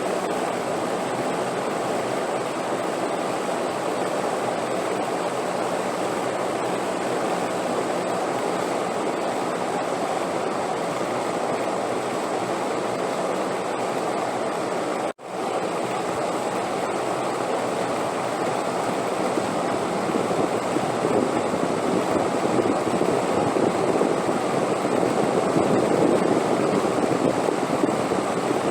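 Continuous wind noise, an even rushing hiss that swells a little louder in the second half, with a split-second cut about halfway through.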